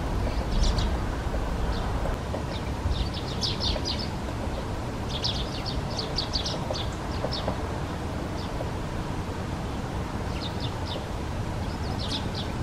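Great spotted woodpecker giving short, sharp 'kik' calls, repeated in quick clusters of several notes every second or two, over a steady low background rumble.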